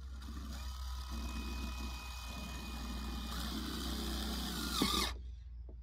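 Power drill driving screws, running steadily with a motor whine for about five seconds, then stopping suddenly.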